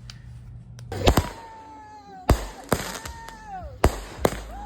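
A series of five sharp bangs at uneven intervals. Some are followed by a clear tone that slides down in pitch over most of a second.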